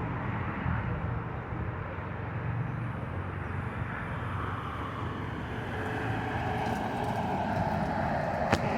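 A vehicle engine running steadily, with a sharp click shortly before the end.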